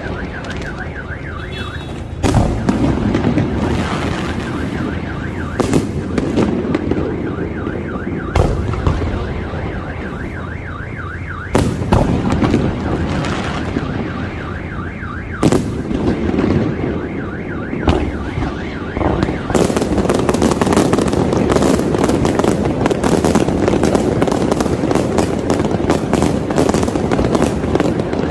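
Fireworks display: aerial shells booming every few seconds while a car alarm warbles underneath. About two-thirds in the alarm fades under a dense, rapid run of crackling bursts.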